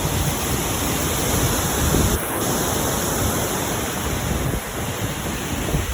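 Small waterfall: water rushing steadily over rocks.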